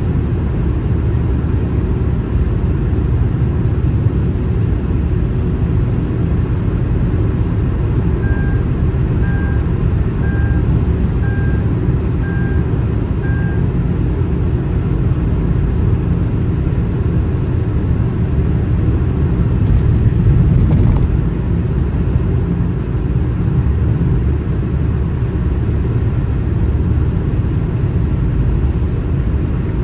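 Car driving at highway speed: a steady low road and engine rumble. About eight seconds in, six short electronic beeps sound about a second apart, and around twenty seconds in the rumble briefly swells louder.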